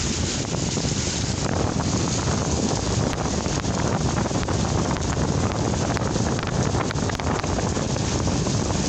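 Steady rain falling in a kalbaishakhi (nor'wester) storm: a dense, even hiss of drops with many fine patters, mixed with wind.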